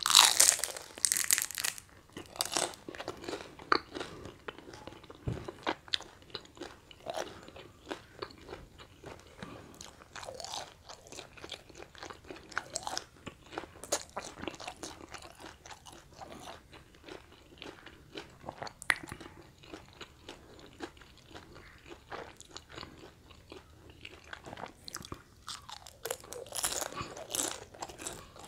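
Close-up biting into a crisp deep-fried risol roll with a loud crunch, then steady crunchy chewing full of small crackles. Near the end comes another louder crunchy stretch.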